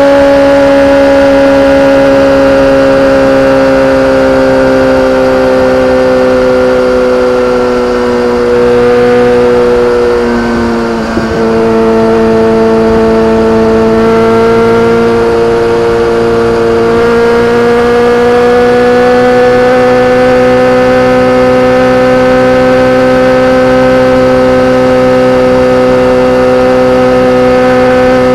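BMW K1300R's inline-four engine through an Akrapovic exhaust, running at fairly steady revs. The pitch sags slowly for the first ten seconds or so, dips briefly around eleven seconds in, then creeps back up.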